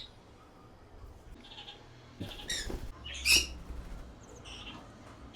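A pet parrot giving a handful of short, harsh squawks and chirps, the loudest a little past the middle.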